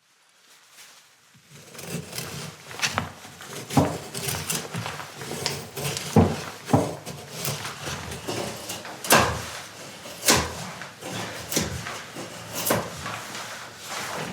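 Irregular knocks and clatters, a dozen or so at uneven spacing, as of hard objects being handled, over a low rustle. The sound fades in at the start.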